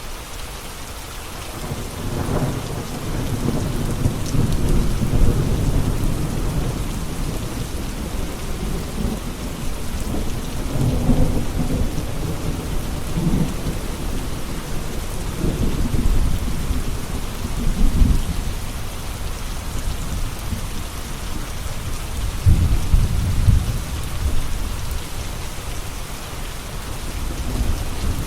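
Steady rain falling, with thunder rumbling low underneath; the rumbles swell and fade in waves several times, the heaviest near the middle and again near the end.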